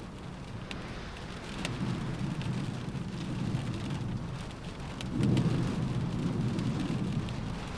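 Rain pattering on a window pane, with scattered sharp drop ticks. A low rumble of wind swells about a second and a half in and again, louder, about five seconds in.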